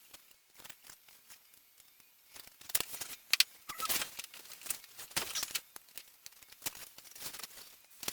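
Irregular scratching, rustling and small clicks from handling and fitting wooden model-aircraft parts on a workbench.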